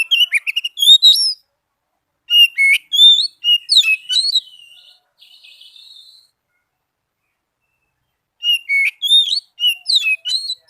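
Oriental magpie-robin (kacer) singing: rapid, varied whistled and chattering phrases in three bouts, the middle one trailing off into a faint buzzy trill, with a silent pause of about two seconds before the last.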